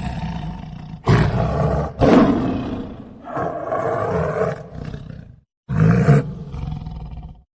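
A large animal's loud, rough roaring calls, several in a row, broken by a short silent gap about five and a half seconds in, then cut off abruptly near the end.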